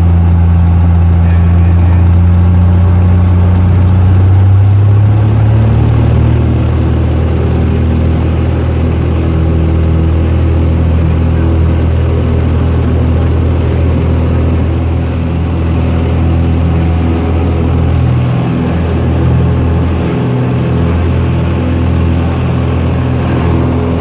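Cessna 172 engine and propeller running steadily and loudly; about five seconds in, the pitch rises a little as the power changes, then holds steady.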